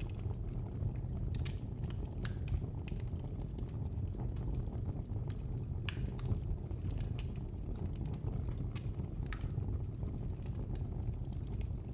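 Wood fire in a fireplace crackling: irregular sharp pops and snaps over a steady low rush of burning.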